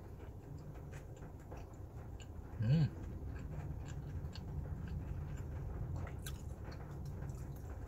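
Close-up mouth sounds of a person chewing a soft, flaky pizza crust, with small wet clicks. A short hummed "mm" comes about three seconds in, over a low steady hum.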